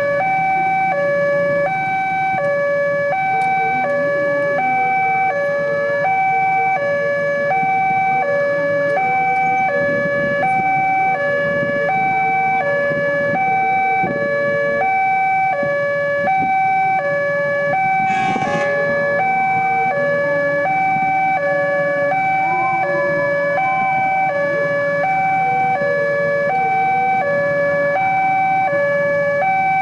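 Level-crossing electronic warning alarm sounding, two tones alternating about once a second, high then low, repeating steadily. Low traffic noise runs underneath, with a short hiss about 18 seconds in.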